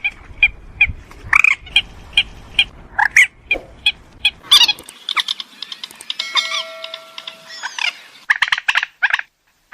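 Purple swamphen calling: short harsh call notes repeated about two to three times a second, breaking into bursts of rapid chattering notes near the end.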